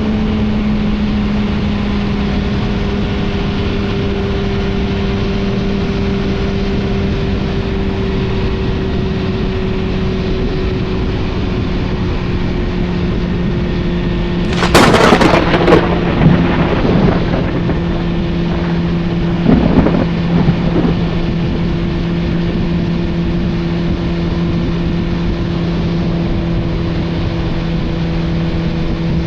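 Suzuki GSF 650 Bandit's inline-four engine running steadily through an Akrapovic exhaust while riding, its pitch drifting slowly lower. About halfway through, and again some five seconds later, loud crackling bursts break in over the engine.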